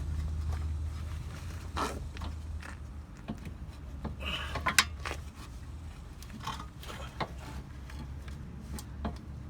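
Scattered light clicks and knocks of metal suspension parts being handled as a Honda Civic's front ball joint is guided toward the lower control arm, with two sharper knocks, over a steady low hum.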